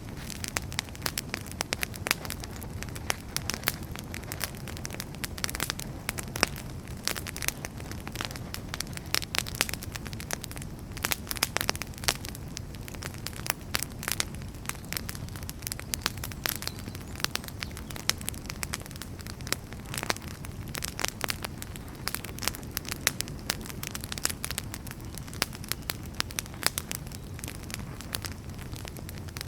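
Wood fire burning in a fireplace, crackling continuously with frequent sharp pops over a steady low rumble of the flames.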